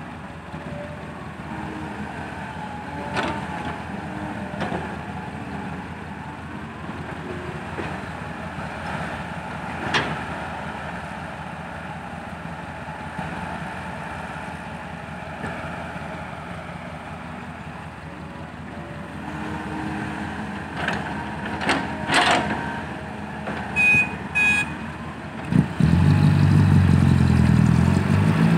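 Diesel engines of dump trucks and an excavator running at a work site, with a few knocks and two short high beeps. Near the end a truck's diesel engine comes in much louder, revving hard as it pulls up out of the pit, a sound called fierce.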